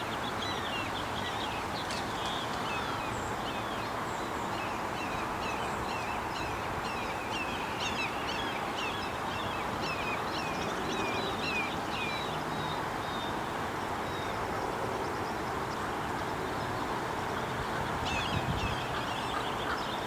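Birds calling in a rapid run of short, high chirps, thick for the first dozen seconds and then thinning out, over a steady outdoor background hiss.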